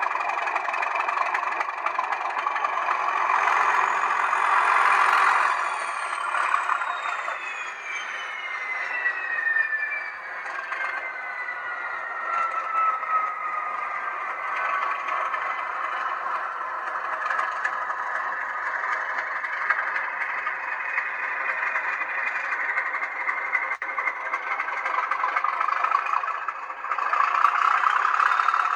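Sound decoder of an N gauge class 37 model locomotive playing English Electric diesel engine sound through its small speaker. A high turbocharger whistle falls slowly in pitch over about ten seconds while the engine runs on steadily. The engine grows louder again near the end.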